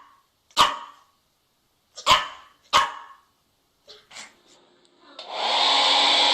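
A dog barking sharply three times, then a couple of fainter short sounds; about five seconds in, a hair dryer switches on and runs with a steady blowing noise.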